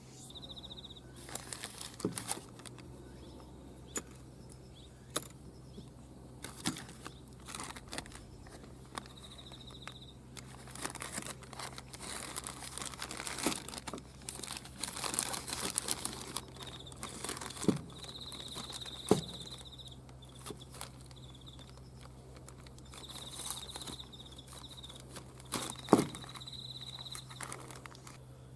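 Workbench handling noises of metal engine parts and tools: scattered clicks and knocks, some rustling, and a short high-pitched squeal that comes and goes several times, over a steady low hum.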